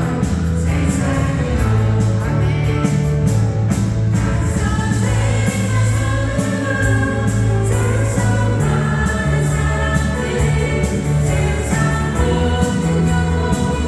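Korean contemporary worship song being sung and played: voices singing a praise melody over a band with sustained bass notes and steady cymbal or hi-hat beats.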